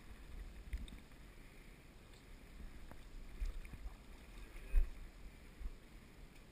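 Faint river water and wind rumble with a few soft, low bumps, the strongest one about three-quarters of the way through.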